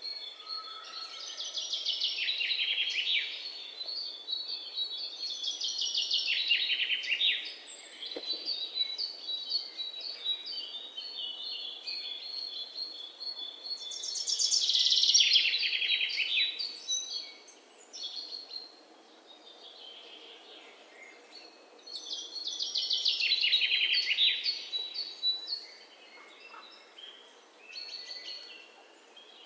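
Songbirds singing: one bird repeats a fast trill of chirps that falls in pitch, about four times, with quieter, thinner chirps from other birds in between.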